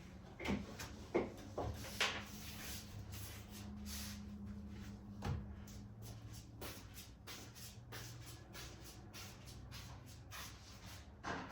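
Scattered knocks, clicks and rubbing of household items being handled and put away, with a steady low hum underneath.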